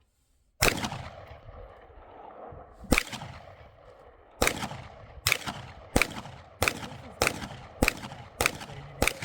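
Ten gunshots from an AR-style rifle being sighted in: two single shots a couple of seconds apart, then a quick string of eight about two-thirds of a second apart, each with a short echo trailing off.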